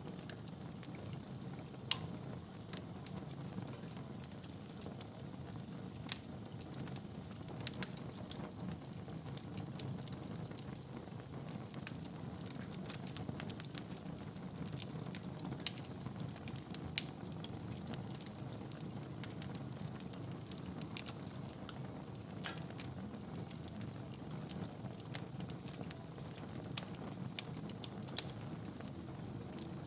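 Wood fire burning in a fireplace: a steady low rumble of flames with frequent irregular crackles and pops from the burning logs, a few of them sharper and louder.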